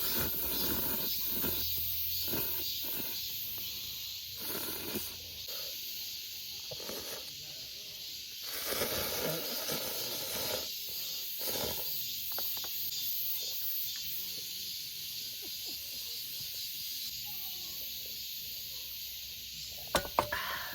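Steady high-pitched drone of summer insects in the forest, unbroken throughout, with irregular close rustling and light knocks of handling and a few sharp clicks near the end.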